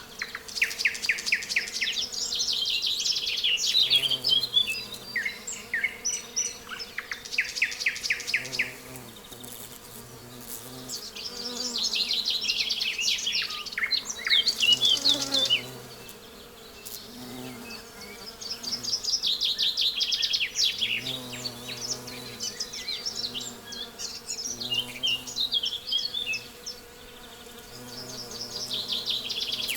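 A nightingale sings loud phrases of rapid repeated notes and trills, with short pauses between the phrases. Bees and bumblebees hum steadily underneath.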